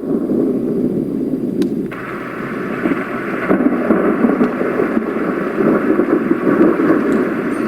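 Roffie white noise machine playing its thunderstorm track through its small speaker: a steady low rain-and-thunder noise, with a brighter rain hiss coming in about two seconds in.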